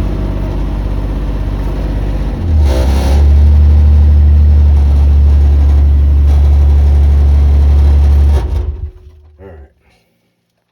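Mini excavator engine running, throttling up to a loud steady hum about two and a half seconds in, then shut off near the end and winding down to silence.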